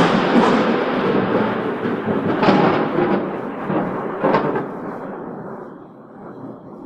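Thunder: a loud clap at the start, then a long rolling rumble with two sharper cracks about two seconds apart, fading slowly.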